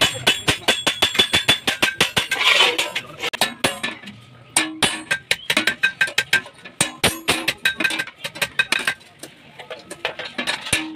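Hammer blows on steel in quick runs of about four to five strikes a second, each leaving a short metallic ring, with two brief pauses.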